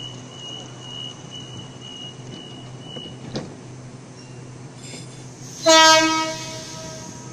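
Waratah electric train's door-closing warning beeps, a high tone repeating about twice a second, then a single knock as the doors shut about three and a half seconds in. Near the end, one short, loud horn blast as the train departs, over the steady hum of the train.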